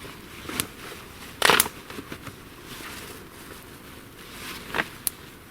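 Campfire crackling: a few sharp pops from the burning wood over a light background hiss, the loudest about one and a half seconds in.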